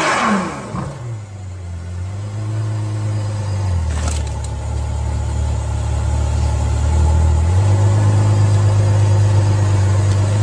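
Car engine: a pitch falling as it slows in the first second, then a steady low drone that shifts pitch twice, with a short knock about four seconds in.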